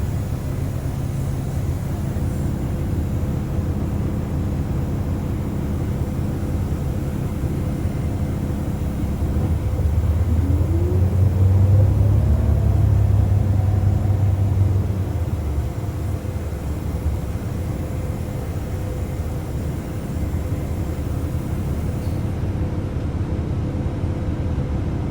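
Tour bus driving, heard from inside the cabin: a steady low engine and road rumble that swells for a few seconds about ten seconds in, with a brief rising whine.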